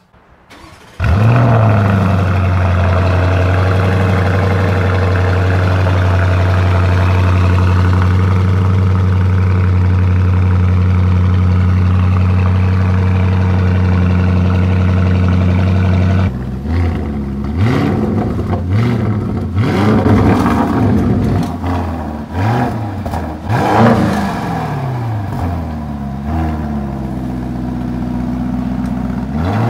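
Lamborghini Urus 4.0-litre twin-turbo V8 with an Akrapovic racing exhaust cold-starting about a second in, then holding a high, steady cold-start idle. About 16 s in the idle drops and the engine is revved several times, each rev rising and falling, before settling back to a steadier idle near the end.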